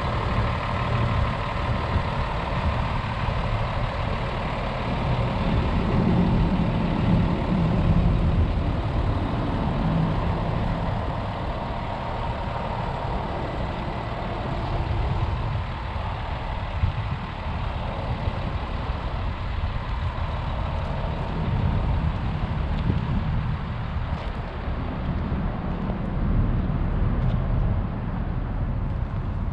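Hino 268A truck's inline-six diesel engine idling steadily, a continuous low rumble.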